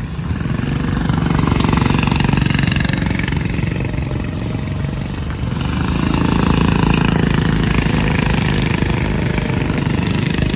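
Go-kart engines buzzing past on the track, the sound swelling twice as karts go by, about a second in and again past the middle.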